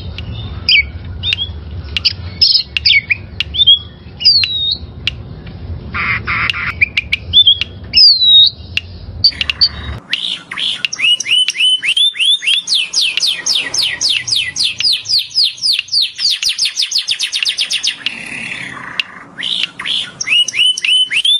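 Birds calling: sharp squawks and short whistled chirps over a low hum, then, from about ten seconds in, a fast run of downward-sweeping whistled notes at about four a second, with a short break near the end.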